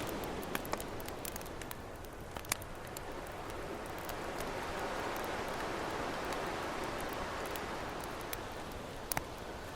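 Campfire crackling with scattered sharp pops over the steady wash of ocean waves. The surf swells through the middle and ebbs near the end.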